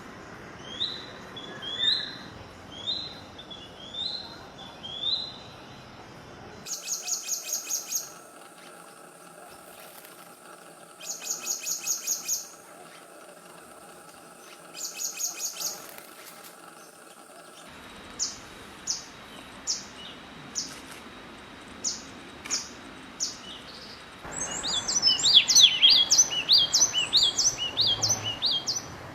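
Several different songbirds calling in spliced recordings. First a rising chirp repeated about once a second. Then bouts of rapid, high trills in three bursts, then sharp single high notes, and near the end a dense, busy song.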